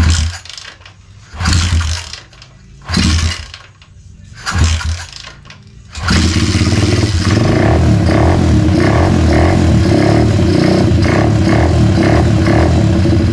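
Tao Tao DB17 125cc four-stroke dirt bike engine being started on a fresh spark plug: four brief bursts as it fires and dies, then it catches about six seconds in and runs steadily.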